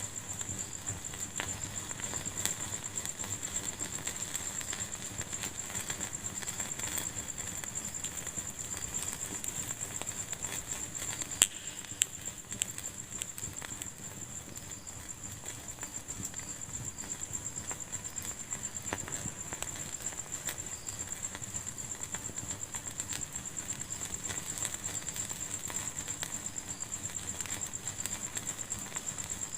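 Wood fire crackling in a fireplace: a steady bed of small crackles with three sharp pops close together about twelve seconds in.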